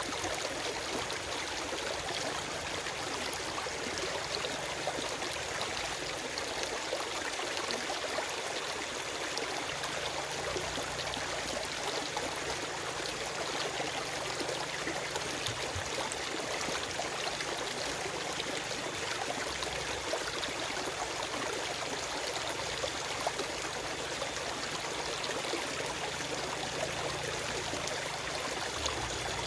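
Forest stream flowing steadily over rocks, a continuous rush of water with small splashes and trickles.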